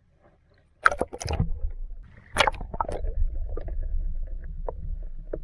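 Wind buffeting the microphone as a steady low rumble, with a few sharp knocks about a second in and again just past two seconds.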